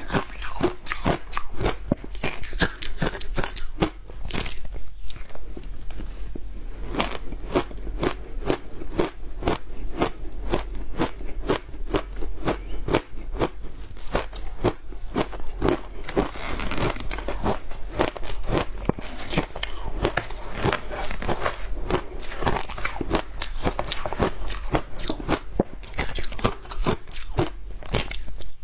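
Frozen matcha ice being bitten and chewed close to the microphone: a steady run of rapid, sharp crunches and cracks, many a second, without a pause.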